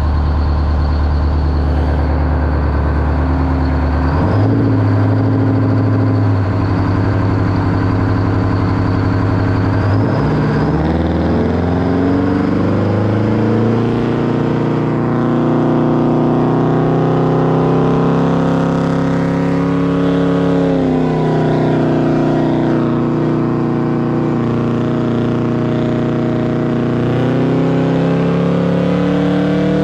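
A Detroit Diesel engine in a monster truck revving and running under load in first gear. Its pitch steps up about four seconds in, climbs again around ten seconds, and dips briefly before rising once more near the twenty-second mark.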